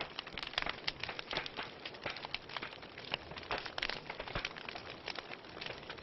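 Wood fire crackling in a fireplace: a dense, irregular run of small sharp crackles and pops, several a second.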